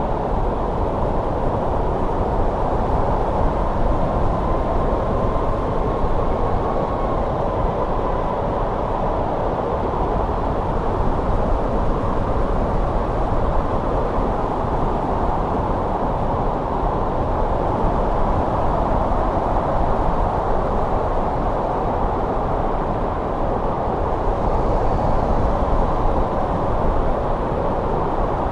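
Steady winter wind blowing, a dense low rushing noise, with a faint whistle rising out of it a few seconds in and again, higher, near the end.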